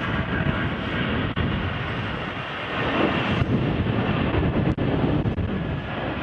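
Jet airliner engine noise mixed with wind buffeting the microphone, a steady loud rumble with a few brief dropouts.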